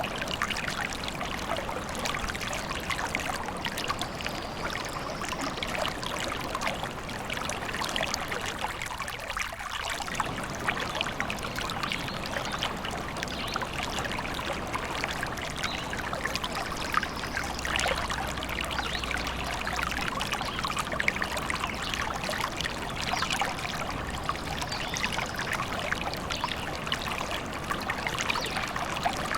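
A small forest stream trickling and babbling steadily over stones.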